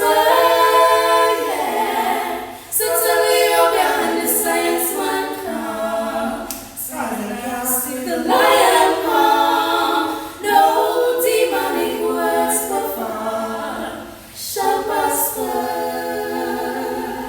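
A small group of women singing a gospel song a cappella in harmony, in sung phrases with short breaks between them.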